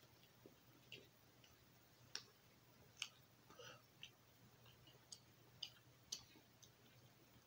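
Near silence broken by faint, irregular mouth clicks of someone chewing buttered sliced Italian bread, about ten in all, over a low steady hum.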